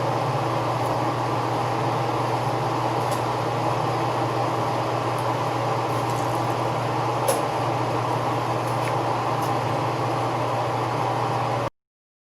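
Metal lathe running with its coolant pump on, a steady low hum, while the pump draws motor oil out of the coolant reservoir. A few faint ticks, and the sound cuts out abruptly shortly before the end.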